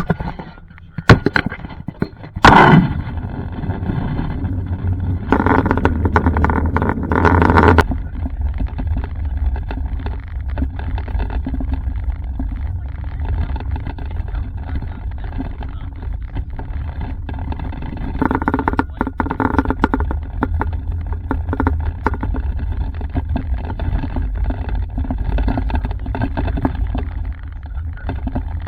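Road and engine noise inside a moving car, a steady low rumble. Near the start come a few sharp knocks, and about five seconds in a louder rushing noise lasts for a couple of seconds.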